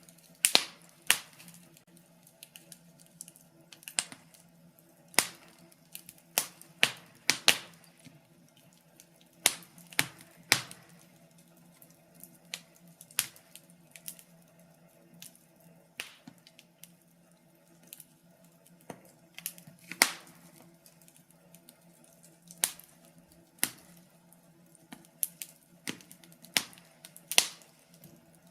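Wood fire crackling in a fireplace: irregular sharp pops and snaps of burning logs, some much louder than others, over a faint steady hum.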